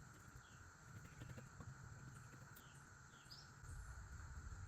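Faint outdoor ambience: a steady insect drone, with a few short falling bird chirps about a second or two apart.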